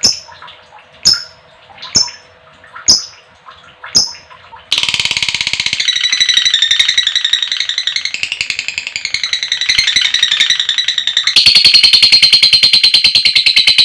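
Female lovebird calling: sharp single chirps about once a second, then about five seconds in it breaks into a long, rapid rattling chatter (the 'ngekek'), which grows louder and denser from about eleven seconds in.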